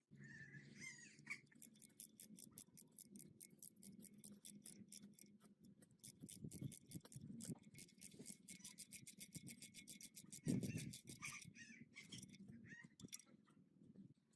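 Quick back-and-forth scrubbing or brushing strokes, about five a second, with brief pauses, over a low hum.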